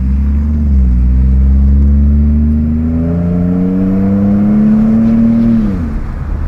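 2016 Ford F-150 3.5 EcoBoost twin-turbo V6 through a custom 3-inch stainless catback exhaust with Thermal Dynamics mufflers, accelerating through the gears: the engine pitch climbs steadily, drops at an upshift under a second in and again about three seconds in, then falls away as the throttle is lifted near the end.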